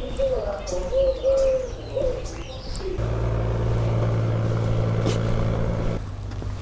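A bird cooing in short wavering phrases, with small birds chirping higher up. About three seconds in, a steady engine hum takes over and cuts off suddenly about three seconds later.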